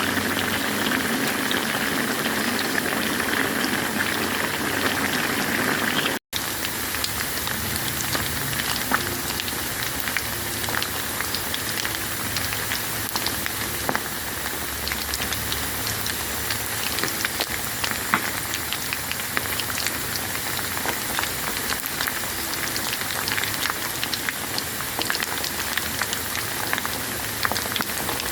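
Chicken deep-frying in hot oil: steady sizzling with dense fine crackles, briefly cut off about six seconds in and then going on.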